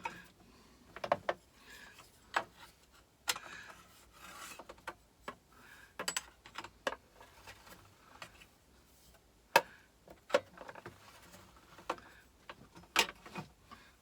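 Scattered metallic clicks, knocks and scrapes of hand-tool work on an unplugged power tool's blade fitting, as a pin spanner is fitted and the blade is locked so that it can be tightened.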